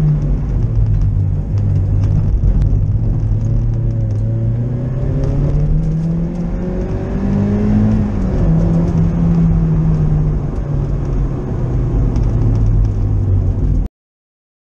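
Mazda MX-5 Mk2.5's 1.8-litre four-cylinder engine heard from inside the cabin, its pitch rising and falling with acceleration, lifts and a gear change, over a steady low road rumble. The sound cuts off abruptly near the end.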